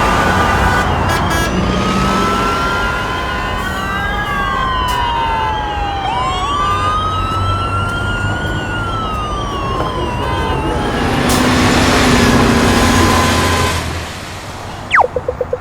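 Busy city traffic with emergency-vehicle sirens: several overlap, with long rising and falling wails and a fast yelping warble through the middle. The street noise drops away sharply about a second before the end.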